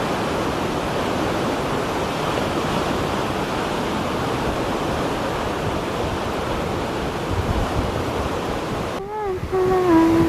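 Steady rush of wind and choppy sea waves, with wind noise on the microphone. About nine seconds in it cuts off sharply and a voice comes in with a long held note.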